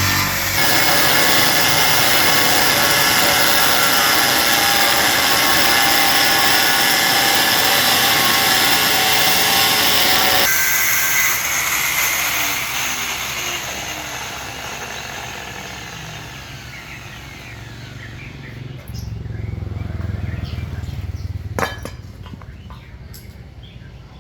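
Electric power tool running loudly. It cuts off about ten seconds in and winds down with falling tones, followed by a low hum and a few sharp clinks.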